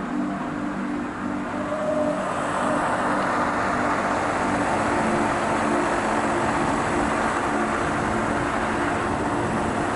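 Narrow-gauge train running, heard from inside an open-windowed carriage: a steady rumble with an even, rhythmic low pulsing, growing louder about two seconds in and then holding.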